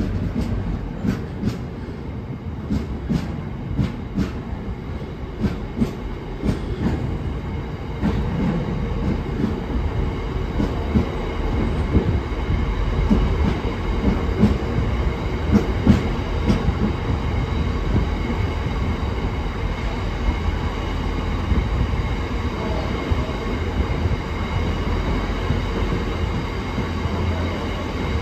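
Freight train's open box wagons rolling past close by: a steady low rumble of wheels on rail. The wheels knock sharply over rail joints, most often in the first seven seconds, and a faint high whine runs under it.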